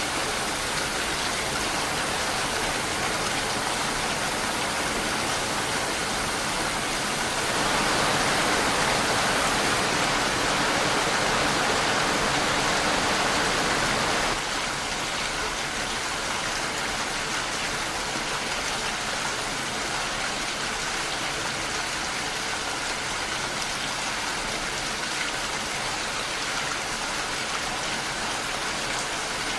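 Steady heavy rain falling, an even hiss of drops. A louder, brighter stretch begins about a quarter of the way in and cuts off suddenly about halfway through.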